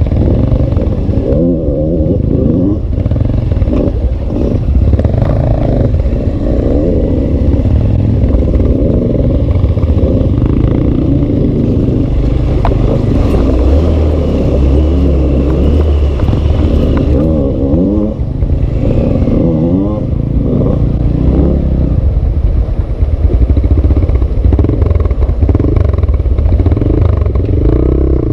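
A carbureted single-cylinder Hero dirt bike engine revving up and down repeatedly as it is ridden off-road, the pitch rising and falling every second or two.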